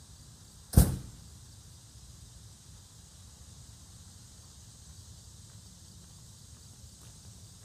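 A single sharp, loud bang just under a second in, dying away quickly, over a faint steady background hiss and low rumble.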